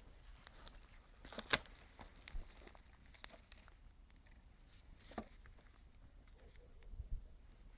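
Wood campfire crackling, with sparse sharp pops and a louder flurry of crackles about a second and a half in.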